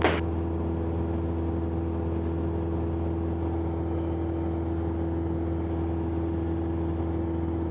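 Cessna 172's piston engine and propeller running at steady power in flight, a constant drone heard inside the cockpit through the intercom. A short burst sounds right at the start.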